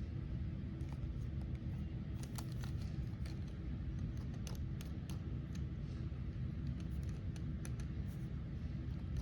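Scattered small clicks and ticks, some in quick clusters, over a steady low hum.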